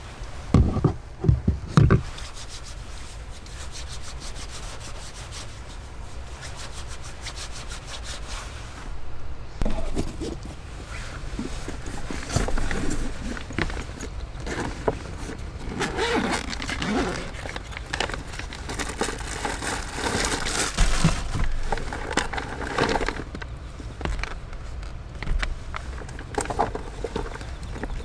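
Irregular scraping and rubbing sounds of objects being handled, with a few sharp knocks in the first two seconds.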